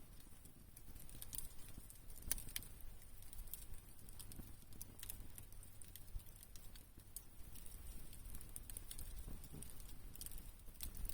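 Wood campfire crackling softly, with irregular sharp pops and ticks.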